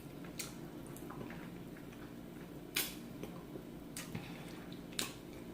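Quiet eating sounds: a person chewing, with three short, sharp clicks or smacks a couple of seconds apart, over a low steady room hum.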